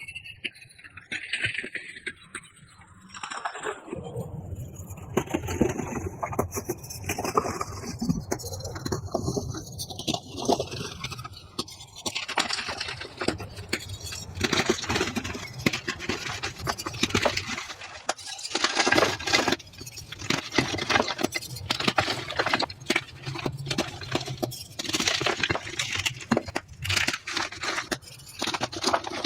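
Reformed gym chalk being crunched and crumbled by hand, sped up to double speed: a dense run of crisp crunches and gritty scrapes.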